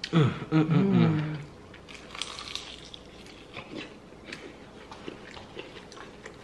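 A short wordless vocal sound from a person, then crunching and chewing as crisp fried shrimp egg rolls are bitten and eaten, with small scattered clicks.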